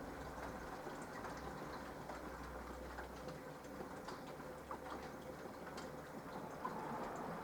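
Minicolo mini washing machine running quietly mid-cycle: a low hum that dies away about six seconds in, over a faint steady tone and scattered light ticks.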